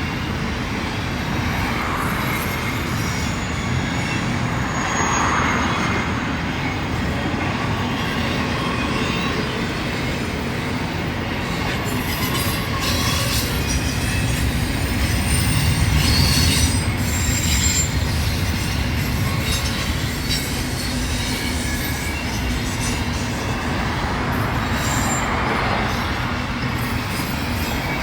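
Freight train cars rolling past, a steady rumble of wheels on rail with intermittent high-pitched wheel squeal and clicks at the rail joints; many of the intermodal cars are running empty.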